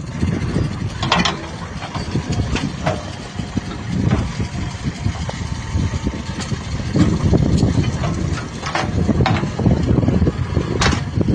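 Diesel engine of heavy earth-moving machinery running steadily at a low rumble, with a few short sharp knocks scattered through it.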